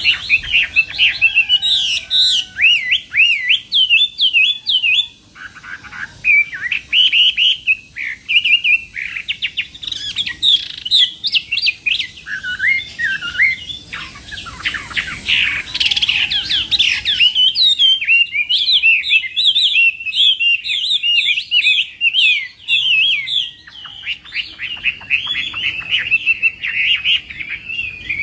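Chinese hwamei singing its loud fighting song: long, fast runs of varied, slurred whistled notes, broken by short pauses.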